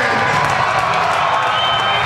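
Arena crowd cheering and shouting.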